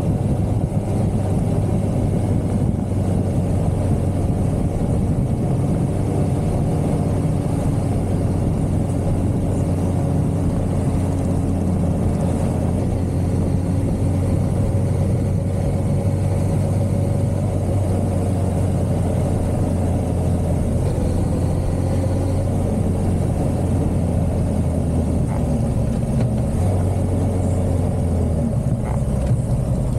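1982 Suzuki GS550L's air-cooled inline-four engine running at a steady cruise, heard from on the motorcycle, with a small change in engine speed near the end.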